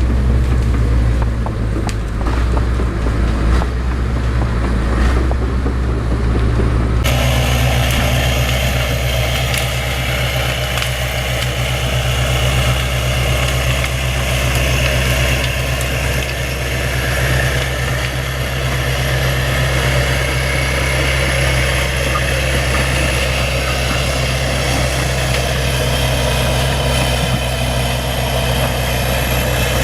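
Bulldozer's diesel engine running steadily with a low drone. The sound changes abruptly about seven seconds in, as if cut to another shot of the machine working.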